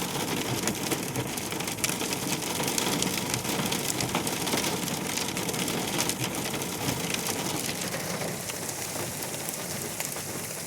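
Hailstorm: hail and heavy rain pelting down in a dense, steady patter, with many sharp ticks of single stones striking, thinning a little about eight seconds in.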